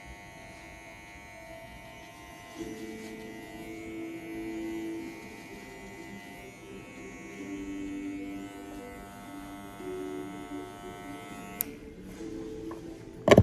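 TPOB GO hair clippers buzzing steadily, then switched off with a click about two seconds before the end. A sharp knock follows just before the end, with background music underneath.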